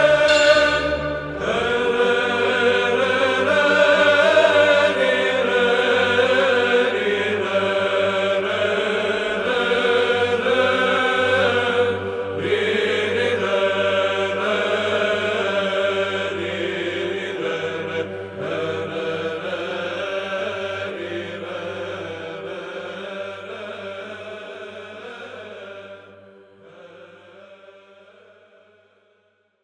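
Byzantine chant sung by a choir over a steady low held drone note (the ison), the melody moving slowly above it; it fades out over the last few seconds.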